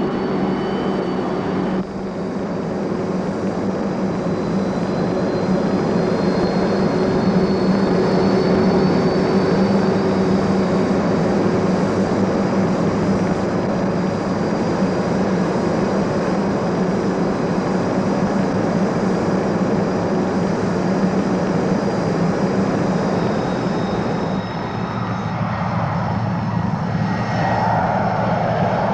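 Avro Shackleton's four Rolls-Royce Griffon piston engines driving contra-rotating propellers, running steadily with a deep propeller drone. The sound shifts slightly about two seconds in and again near the end.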